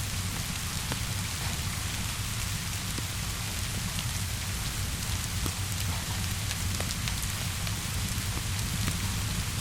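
Steady rainfall hissing evenly over a low rumble, with scattered sharp crackles from a wood fire mixed in.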